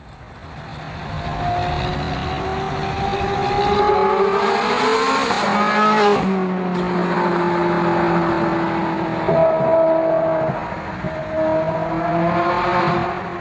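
Ferrari 430 Scuderia's V8 accelerating hard, its note climbing steadily for a few seconds, then dropping abruptly about six seconds in and holding lower before climbing again near the end.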